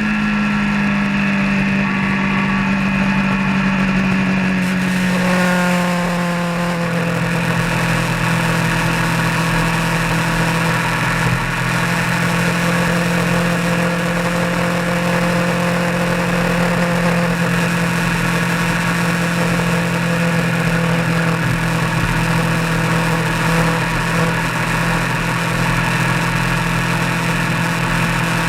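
A vehicle's engine running on the road. Its pitch falls about five seconds in as the revs drop, then it holds a steady note.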